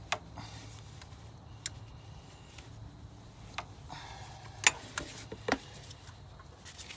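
Scattered sharp metallic clicks and knocks of hand tools and parts being handled during an alternator installation, about six in all, the loudest a little over halfway through, over a low steady hum.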